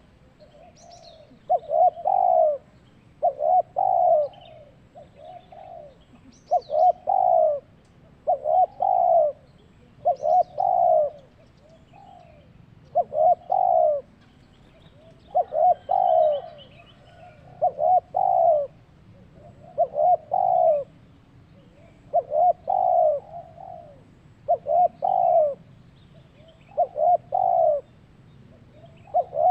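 Zebra dove (perkutut) singing: short phrases of rapid cooing notes, repeated about every one and a half to two seconds. A few faint high chirps from another small bird are heard between them.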